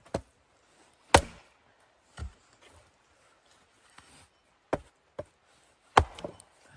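Wood being chopped: about six sharp strikes at uneven intervals, the loudest about a second in and near the end.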